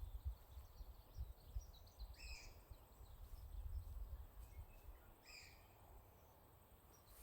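Two short bird calls, about two seconds and five seconds in, over an irregular low rumble with soft knocks that fades out after about five seconds.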